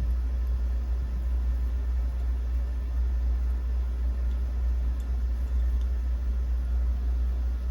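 Steady low background rumble, with a faint click about five seconds in.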